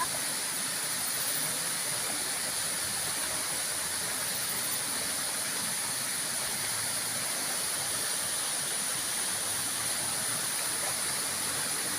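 Waterfall: water falling and rushing steadily, with a steady high hiss above it.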